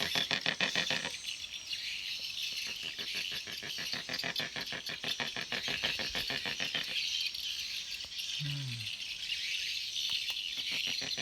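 Fast, steady rattling pulses, high-pitched, typical of a calling animal chorus, with a brief low falling call about eight and a half seconds in.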